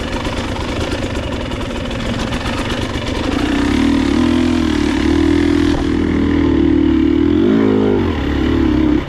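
Enduro motorcycle engine running on the trail; about three seconds in the revs climb and are held steady under throttle, swing up and back down briefly near the end, then drop off sharply.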